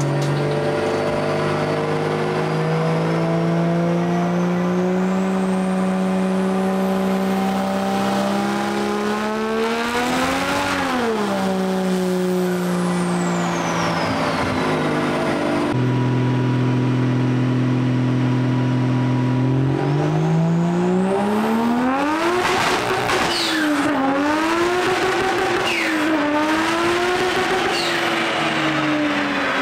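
Turbocharged 1JZ inline-six in a Nissan 350Z running under load. The revs climb steadily for about ten seconds, peak and drop back, then hold steady for a few seconds. Near the end they rise again and swing up and down several times.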